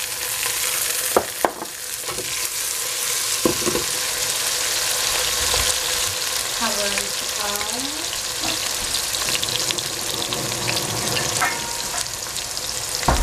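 Cooking oil sizzling steadily in a stainless steel pot of sliced mushrooms and leeks over a strong flame, just after the oil has been poured in. A few sharp knocks sound in the first four seconds.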